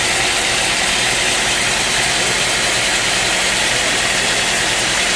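A sawmill engine running steadily at an even speed, with a constant hiss over a low hum and no change in load.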